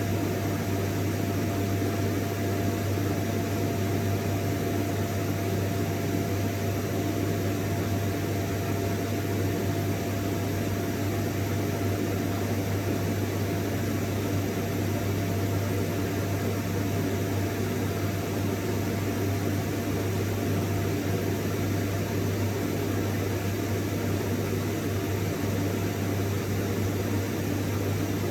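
Vacuum cleaner running steadily: a constant motor drone with a strong low hum and a thin steady whine over an even rush of air.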